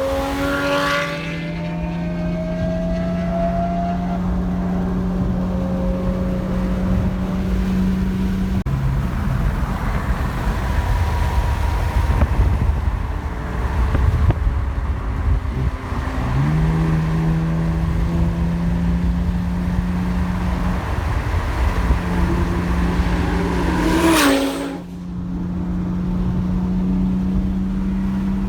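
High-performance sports car engine running hard: the revs climb in the first few seconds, then hold steady at high speed with a couple of drops and climbs. About three-quarters of the way through, another fast car rushes past with a sharp whoosh and a falling pitch.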